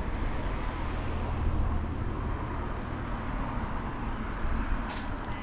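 Street ambience carried by a motor vehicle's engine running low and steady, swelling slightly as it passes, with a few short clicks near the end.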